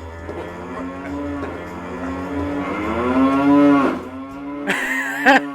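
Cow-like mooing from the Cars racing tractors: a long moo that swells and bends in pitch, loudest about three and a half seconds in, followed by a higher, wavering sound near the end.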